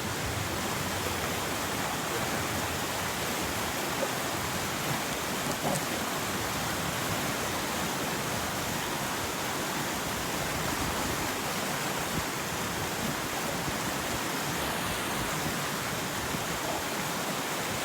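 Steady rushing of a fast-flowing river, water running over rocks.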